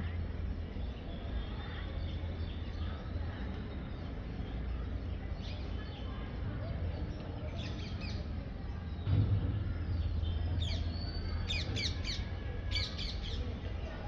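Small birds chirping: short, quick, falling chirps in clusters, sparse at first and coming thick and fast in the last few seconds, over a steady low background hum.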